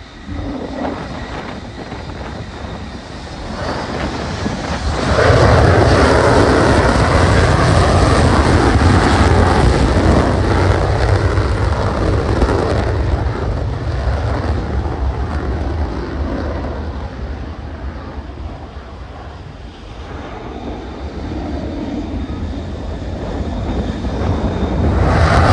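Jet noise from Dutch F-35A fighters' single Pratt & Whitney F135 engines in afterburner. It jumps sharply louder about five seconds in, stays loud for several seconds, fades away, then builds again near the end as another jet comes through.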